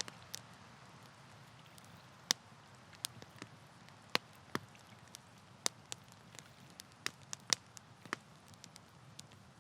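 Wood campfire crackling: irregular sharp pops and snaps from the burning logs over a soft steady hiss, with the loudest snaps about two and seven and a half seconds in.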